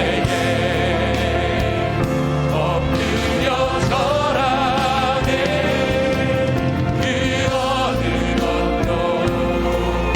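Contemporary worship band playing a Korean praise song: singers with vibrato over keyboards, bass, electric guitar and drums.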